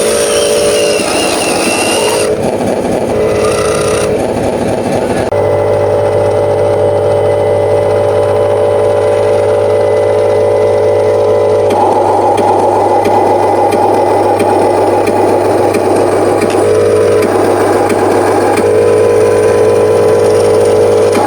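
Electric motors of radio-controlled scale construction models whining steadily as they work. The pitch shifts abruptly every few seconds as the machines load soil, and a steady low hum joins about five seconds in.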